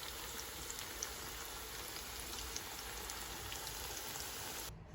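Pakoras deep-frying in hot oil: a steady sizzle with scattered small crackles.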